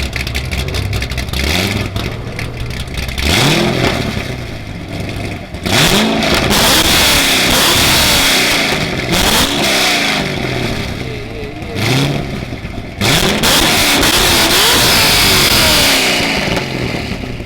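2005 Corvette's 6.0-litre LS2 V8 through a Flowmaster exhaust, idling and then revved repeatedly: several quick blips from about three seconds in, then two long, loud revs held high before dropping back.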